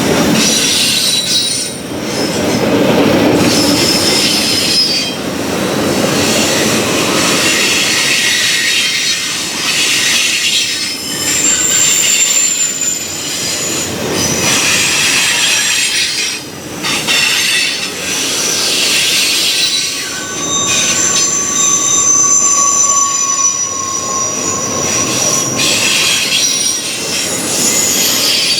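Freight train rolling past, its steel wheels squealing against the rail over a continuous rumble, with high squeals that come and go.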